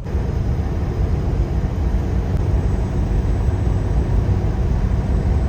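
A truck on the move: a steady low rumble of engine and road noise with a hiss over it, starting abruptly.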